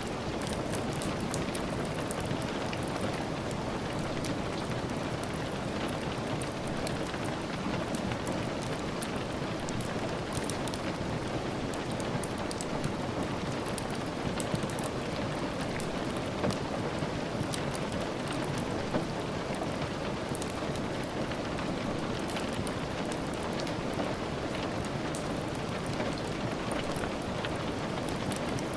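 Steady rain falling, a constant hiss with scattered sharp ticks of drops and light crackles, as in a rain-and-fireplace ambience.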